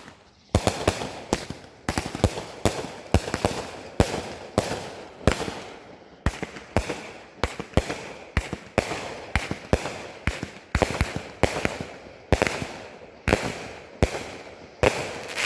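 A multi-shot consumer firework cake firing shot after shot: sharp bangs about two a second, each trailing off briefly.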